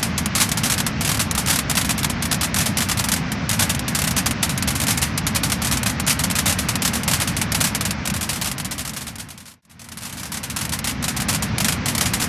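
Wood-burning fire crackling and popping: many sharp snaps over a steady low rush of flame. About nine and a half seconds in, the whole sound fades out briefly and returns.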